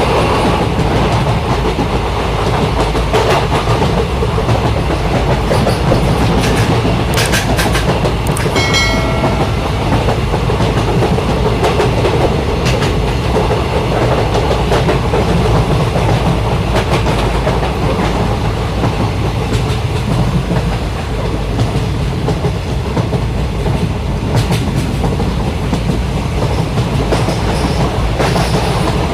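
Sri Lanka Railways express train running steadily on the track, a continuous loud rumble of wheels on rail, with a few clicks and a brief high tone about eight to nine seconds in.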